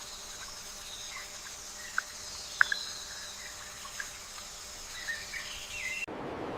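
Nature ambience: a steady high insect chorus with a few short, sharp animal chirps, the loudest about two and a half seconds in. About six seconds in it cuts abruptly to a broader rushing noise.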